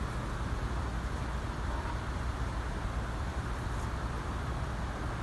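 Strong wind blowing on a phone's microphone: a steady low rumble under a hiss.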